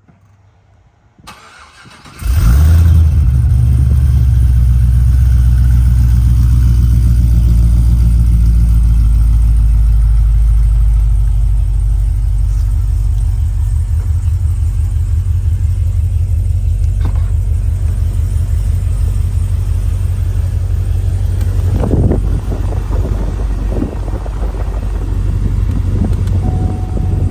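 Cadillac CTS-V's supercharged 6.2-litre V8 remote-started from cold. After about two seconds of quiet it fires suddenly and runs at a loud, fast cold idle. The idle eases slightly after about ten seconds and then holds steady.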